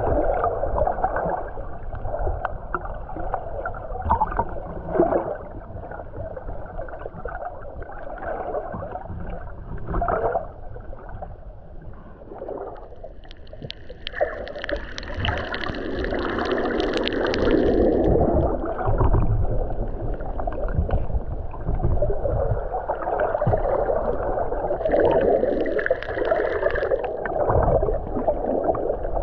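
Underwater ocean surge over a reef: muffled churning and gurgling water, swelling into two louder rushes about halfway through and again near the end.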